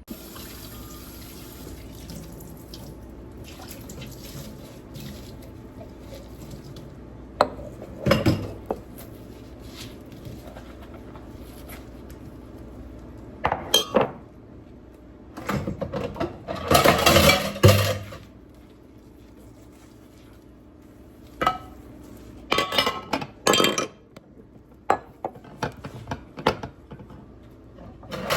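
Dishes, pots and cutlery being handled, clinking and clattering in separate bursts over a steady low background hum.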